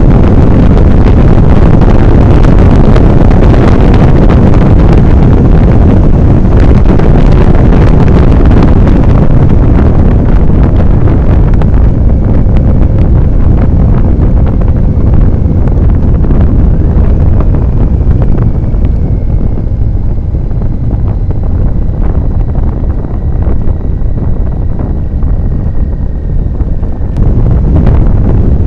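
Heavy wind buffeting on the microphone of a motorcycle-mounted camera while riding at speed. It eases a little about ten seconds in and picks up again near the end.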